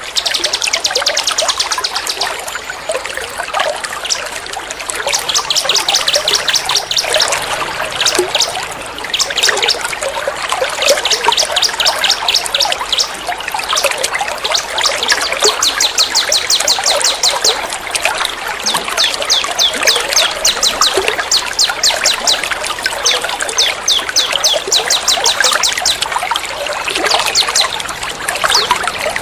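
Looped bird-training recording of small songbirds giving rapid 'tembak' runs of sharp high notes, several a second, stopping and starting again, over a steady trickle of running water.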